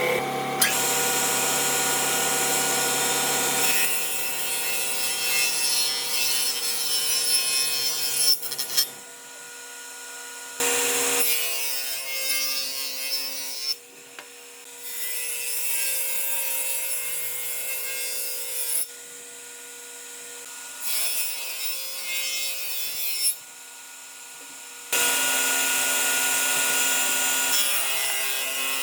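Power tool working wood, running steadily, in a string of abruptly cut takes: loud stretches alternate with quieter ones where the level drops sharply.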